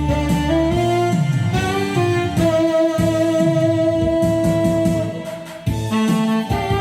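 Saxophone playing a melody with long held notes over a backing track of plucked guitar and bass.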